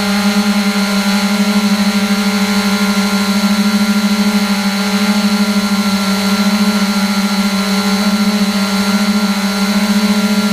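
3DR Iris+ quadcopter's electric motors and propellers running with a loud, steady buzz that holds one pitch.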